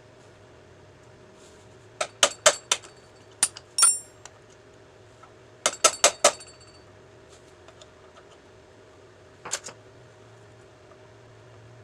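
Metal tapped with a hammer: sharp ringing clinks in quick groups, about four taps two seconds in, two more a second later, four more near six seconds, and a pair near nine and a half seconds.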